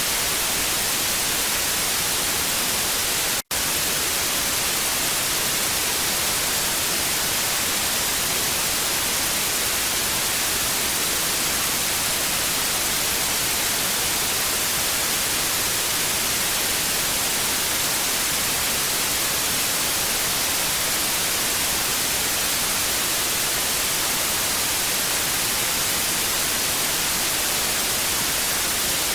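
Steady television static hiss, even and unbroken except for a split-second dropout to silence about three and a half seconds in.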